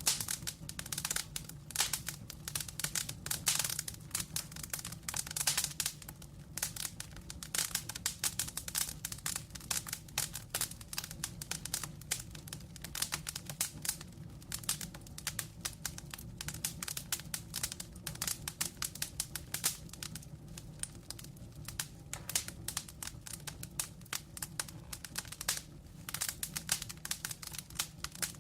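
Wood fire burning in a fireplace, crackling steadily with dense, irregular pops and snaps over a low, even hiss of flame.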